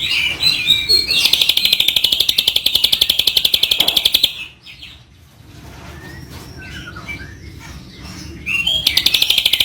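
Caged songbird singing. It delivers a rapid machine-gun trill of evenly spaced high notes for about three seconds (a 'tembakan' burst), then softer chirps, then starts a second trill near the end.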